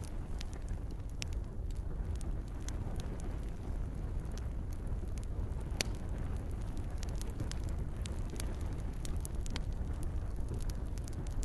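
Campfire crackling: scattered sharp pops and snaps of burning wood over a steady low rumble of flames.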